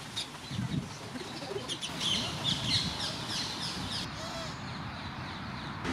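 Birds calling: a rapid run of short, repeated calls that stops about four seconds in.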